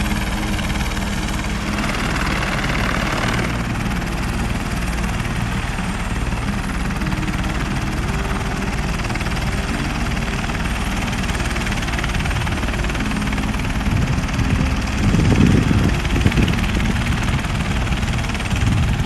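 Sightseeing helicopter running on the ground with its rotors turning, a steady engine and rotor hum, with a louder low rumble about fifteen seconds in.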